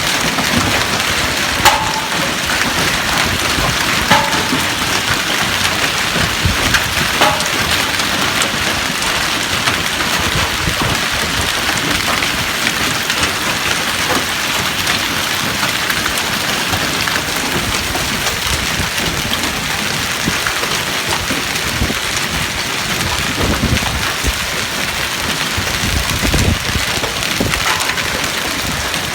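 Hail falling hard in a dense, steady patter of strikes, with a few louder sharp cracks in the first several seconds, some of them ringing briefly.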